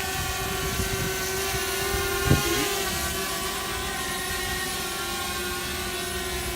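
DJI Spark quadcopter's propellers whirring steadily with a level motor whine. There is one brief knock about two seconds in.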